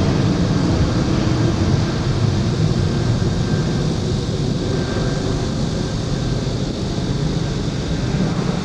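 Jet airliner's engines making a steady, loud rumble.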